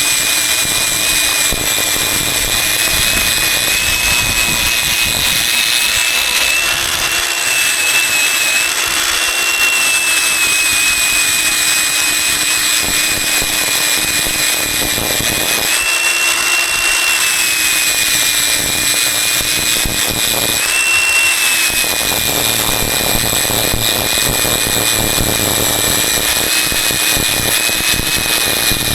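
Electric power tool running continuously with a high motor whine. The pitch lifts briefly twice, around 16 and 21 seconds in, as the load on it changes.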